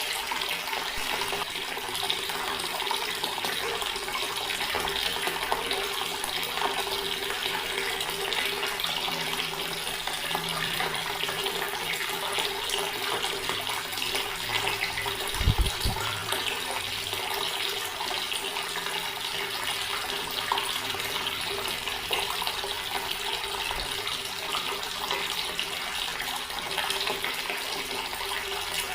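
Water from a tap pouring steadily into a stone basin, splashing without a break. There is a brief low thump about halfway through.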